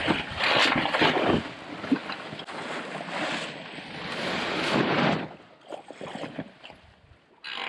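Wind gusting across the microphone aboard a sailboat, with water rushing past the hull. The gusts are loud and surging for the first five seconds or so, then ease off sharply.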